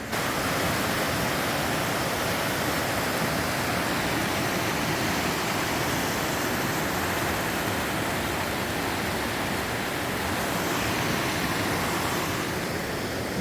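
Rushing river water, a steady, even roar of whitewater.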